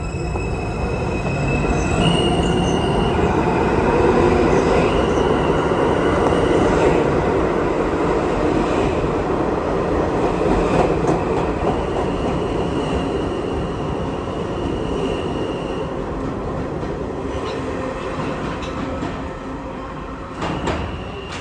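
New York City subway train running on steel rails, its wheels squealing in steady high tones over a heavy rumble. It is loudest a few seconds in, then slowly fades, with a short knock near the end.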